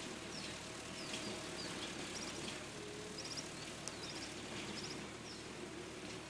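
Small birds chirping: short high falling notes and quick runs of about four notes, repeated every second or so, over steady outdoor noise with a faint low hum.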